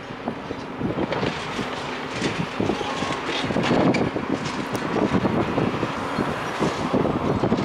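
Demolition machinery tearing into a building, with a steady run of crunching and clattering knocks from breaking and falling rubble. Wind buffets the microphone.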